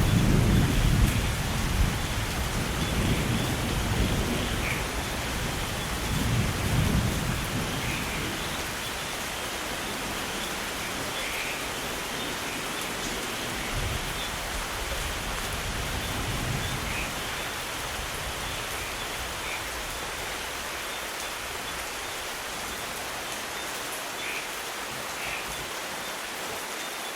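Steady rain falling, with a low rumble of thunder at the start that rolls away and fades over the first several seconds, then the even hiss of the rain.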